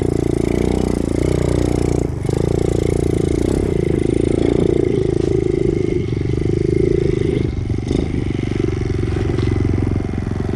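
Dirt bike engine running under load on a steep dirt climb, its revs rising and falling, with a brief break and a knock about two seconds in.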